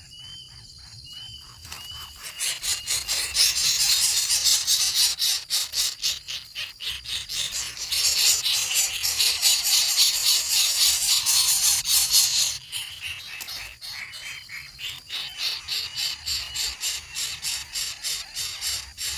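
Loud, rapidly pulsing chorus of small calling animals in the wild, with a short chirp repeated several times a second near the start and again in the second half. The chorus swells about two seconds in and drops back after about twelve seconds.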